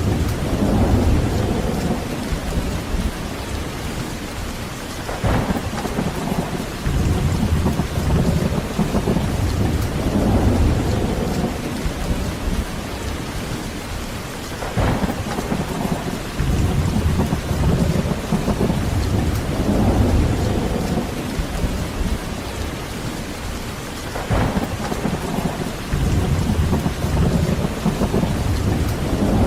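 Heavy rain falling steadily with rolling thunder: low rumbles swell and fade several times, three of them opening with a sharper crack.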